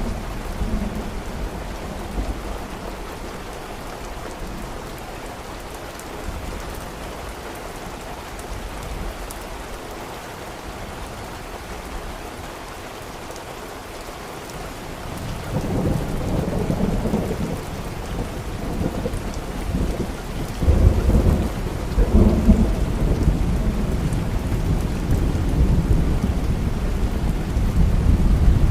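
Steady rain with thunder: a low rumble of thunder swells up about halfway through and rolls on, with another louder roll a few seconds later.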